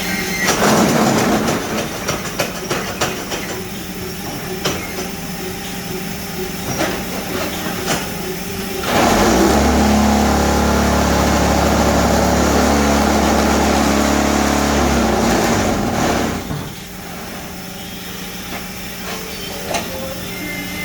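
RH1S12 paving block machine running: a steady hum with scattered knocks and clanks, then from about nine seconds in a much louder vibrating rattle, the compaction vibrator shaking the concrete in the mould, which cuts off about seven seconds later.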